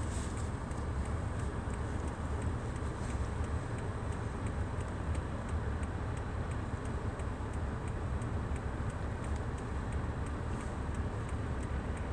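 Car driving, heard from inside the cabin: a steady low rumble of engine and tyres, with faint ticking throughout.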